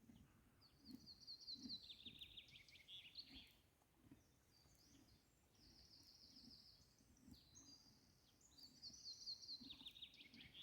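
A songbird singing: a fast trilled phrase that steps down in pitch, heard twice, with shorter chirps in between, over faint background noise.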